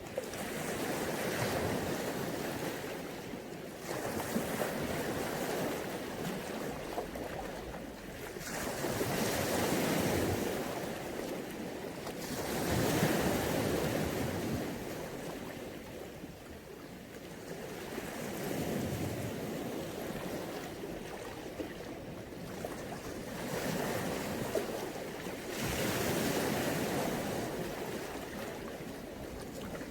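Mediterranean Sea waves washing onto the beach, the surf swelling and falling back every few seconds.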